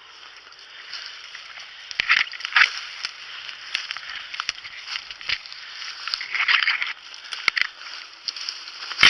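Footsteps through a wet bog, with brush rustling against clothing and twigs cracking underfoot several times.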